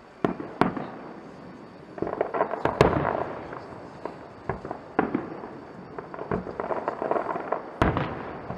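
Fireworks display: a string of sharp bangs from bursting shells, with clusters of crackling between them, the loudest about three seconds in.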